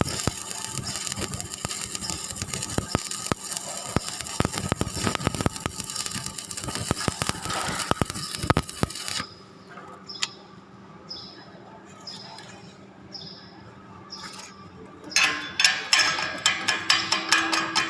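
Electric arc welding crackling steadily on the steel flange, cutting off abruptly about nine seconds in. A quieter stretch with a few short squeaks follows, then rapid, sharp taps begin near the end.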